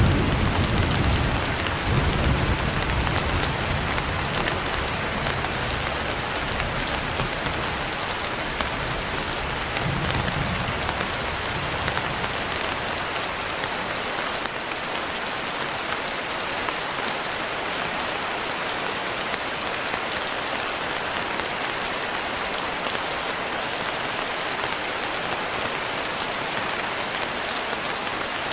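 Steady heavy rain falling, an even hiss, with low rolling thunder dying away over the first few seconds and rumbling briefly again about ten seconds in.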